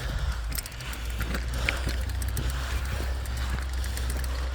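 Rattles, clicks and crunches of a 29er mountain bike being pushed over rocky ground, over a steady low rumble.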